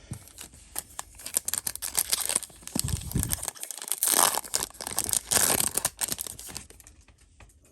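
Foil Yu-Gi-Oh! booster pack wrapper being torn open and crinkled by hand: a run of crackling tears and rustles, loudest about four to five and a half seconds in, then dying away.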